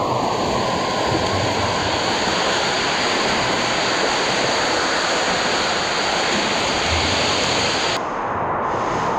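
Steady, loud rush of splashing water in a swimming pool.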